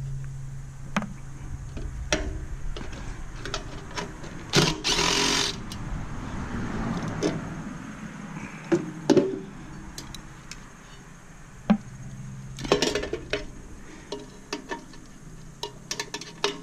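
Tools and metal parts of a stainless steel steamer knocking and clinking while it is taken apart, with scattered sharp taps and a short rasping noise about five seconds in.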